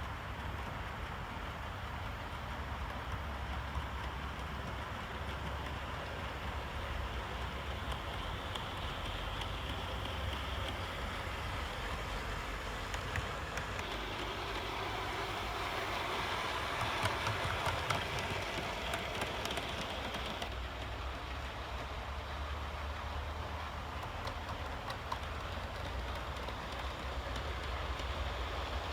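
OO gauge model train running along the layout track: a steady rumble of motor and wheels on rail that grows louder about halfway through and eases off again.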